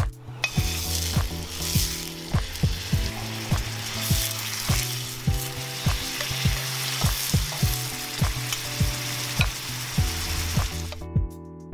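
Meat-wrapped rice balls sizzling in plenty of hot oil in a frying pan over medium-high heat; the sizzle starts just after the beginning and cuts off suddenly near the end.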